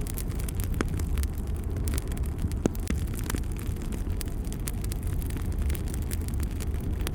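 Wood fire burning in a fireplace: a steady low rumble of the flames with scattered, irregular crackles and pops.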